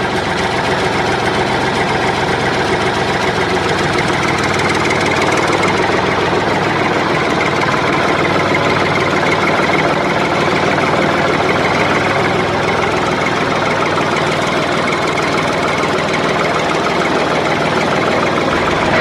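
Mini tractor's small engine running steadily at a constant speed.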